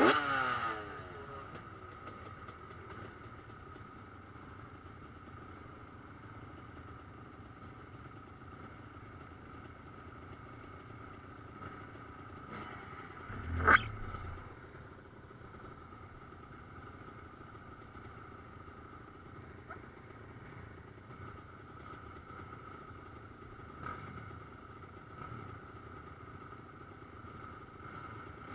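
Motocross motorcycles racing. One goes by close at the start, its engine note falling as it passes. Other engines then run steadily around the track at a distance, with a short loud burst about halfway through.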